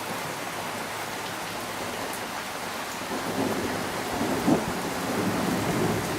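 Heavy rain pouring steadily in a thunderstorm, with thunder rumbling and building in the second half.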